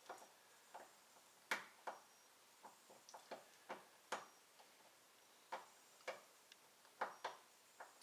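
Faint, irregular sharp clicks of a hand tool working the T30 Torx screws that hold a door handle on a car's interior door panel. The clicks come about two or three a second, unevenly spaced, some louder than others.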